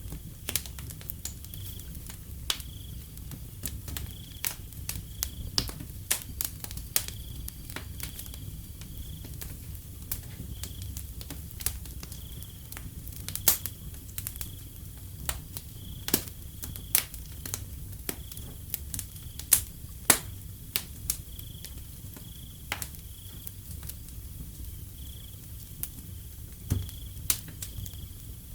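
Wood fire crackling, with frequent sharp pops of varying loudness over a low steady rumble. A cricket chirps in short repeated pulses behind it.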